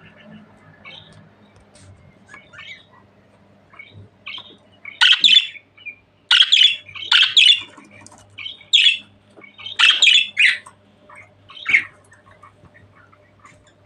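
Budgerigar chatter: soft twittering at first, then about five seconds in a run of loud, harsh squawking calls, several in quick succession.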